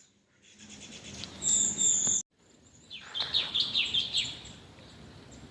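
Wild forest birds calling: a high, thin held note that cuts off suddenly, then a quick run of about a dozen short falling chirps.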